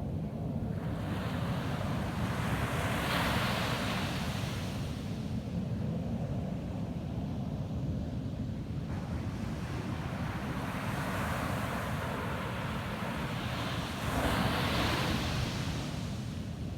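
Ocean surf breaking on a beach: two waves, each a swelling hiss that builds and then fades, the first about a second in and the second from about nine seconds, over a steady low rumble.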